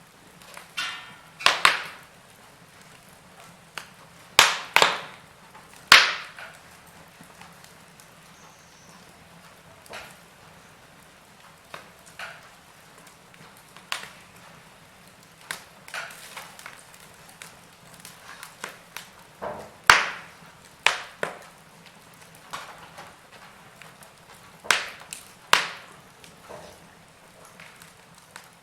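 Wood fire crackling in a fireplace: irregular sharp pops and snaps of burning logs, a few louder cracks among many small ones, over a faint steady hiss.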